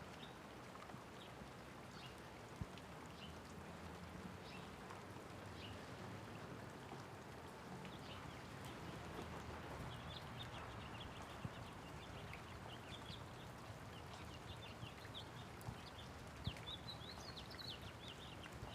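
Light rain falling steadily, with the sharp taps of individual drops now and then. Small birds chirp in short high calls, sparse at first and more often from about halfway through, busiest near the end.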